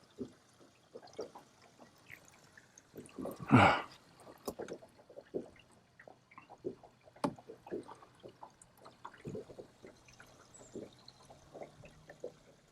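Water splashing, trickling and dripping in short scattered plops as a hooked longnose gar is played at the surface, with one louder splash about three and a half seconds in.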